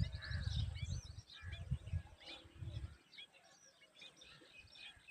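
Birds chirping: many short, high, quick calls overlapping through the whole stretch. A low rumble runs under them for the first three seconds and then stops.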